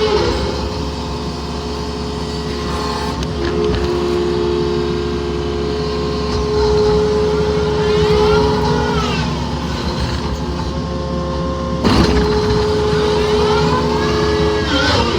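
Yanmar mini excavator's diesel engine running under load, with its hydraulic whine rising and falling several times as the machine works. A single sharp clank about twelve seconds in.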